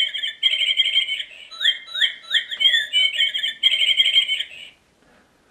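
A bird chirping: a quick run of rising and falling chirps, the same phrase heard twice over, stopping about a second before the end. It keeps chirping despite the sticky tape meant to silence it.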